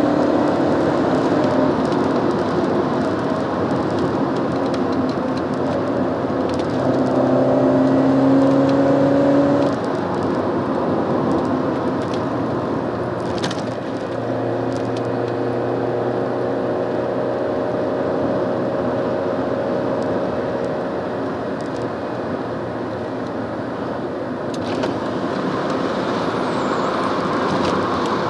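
Alfa Romeo 916 GTV Twin Spark 2.0 four-cylinder engine heard from inside the cabin while driving, over steady tyre and road noise. The engine note climbs and grows louder, then drops off suddenly about a third of the way in, and afterwards settles into a steadier cruise note.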